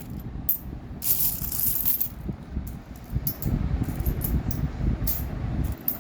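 Bangladeshi taka coins from a broken piggy bank clinking and clattering as they are sorted by hand into denominations, with many scattered sharp clicks and a brief hiss about a second in.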